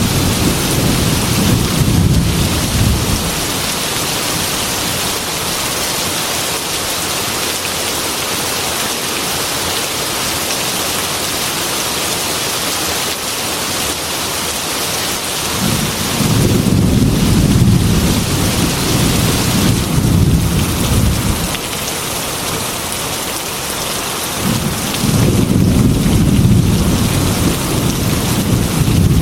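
Heavy rain falling steadily, with deep rolling thunder three times: at the start, fading after a few seconds, again past the middle for several seconds, and once more near the end.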